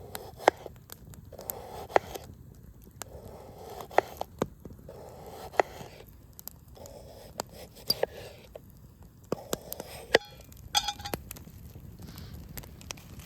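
Campfire crackling with scattered sharp pops, over a repeated crunching about once a second and a brief squeak just before 11 seconds in.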